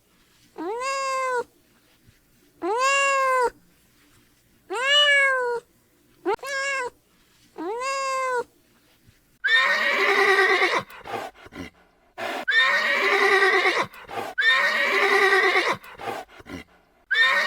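A cat meowing, six short calls that each rise and fall in pitch, then a horse whinnying several times in long, wavering calls from about halfway through.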